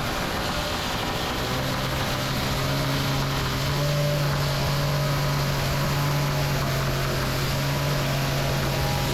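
A motor running steadily: a loud hum over a wide rushing noise, the hum's pitch stepping up slightly a couple of times.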